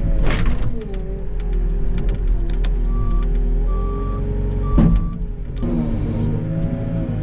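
Snow-clearing machine's engine running and shifting pitch as it works, with a backup alarm beeping at intervals from about three seconds in. There are two loud bangs, one just after the start and a louder one about five seconds in.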